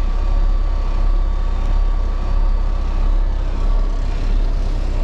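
Semi truck's diesel engine idling steadily while warming up just after a hard start, with a deep low rumble. A faint steady whine sits over it and fades about three seconds in.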